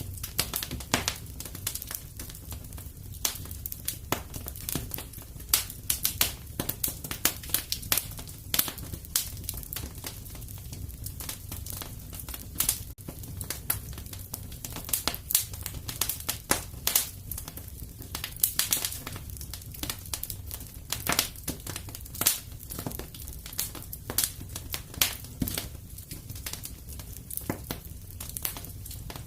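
Wood fire crackling, with irregular sharp pops and snaps over a soft low rumble.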